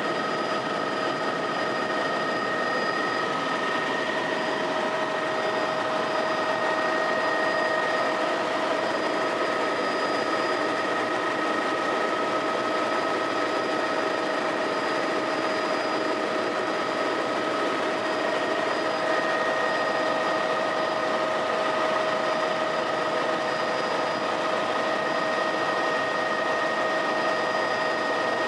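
Helicopter running steadily: an even rushing noise with a constant whine of several steady high tones.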